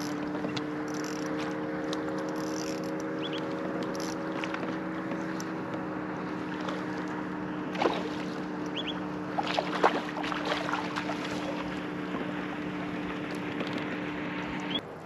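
Electric trolling motor (MotorGuide Xi3) running with a steady hum, its pitch shifting slightly partway through, then cutting off suddenly near the end. A few sharp knocks and clicks come around the middle.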